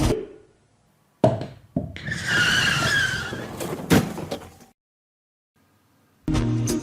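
Sound effect of a vehicle accident played for a road-safety mime: a sudden bang, then a wavering tyre screech with another sharp bang near its end, each cut off into silence.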